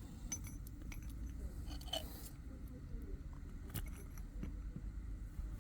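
Faint scattered clicks and a short scrape about two seconds in, as a blade works chunks off an Xcelite screwdriver's plastic handle, over a steady low hum.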